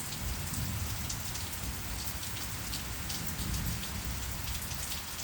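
Steady rain from a passing cold front: a continuous hiss with many individual drops ticking.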